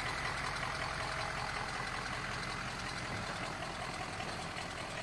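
Vehicle engines running steadily: a continuous low rumble under an even hiss.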